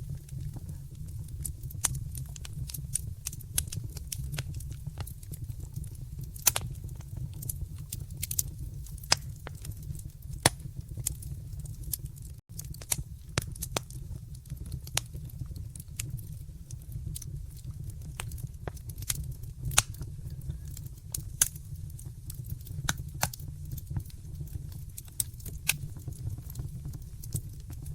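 Wood fire burning in a fireplace: a steady low rumble with frequent irregular crackles and sharp pops, a few of them louder.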